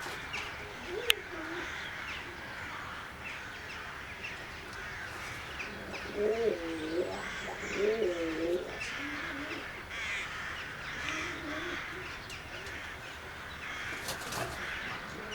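A flock of birds calling together, a dense chatter throughout, with low warbling pigeon-like coos that are loudest about six to nine seconds in.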